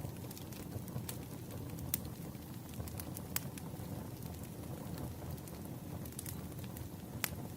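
Wood fire crackling: irregular sharp pops and snaps over a steady low rumble of burning logs, with the loudest snaps about two seconds in and near the end.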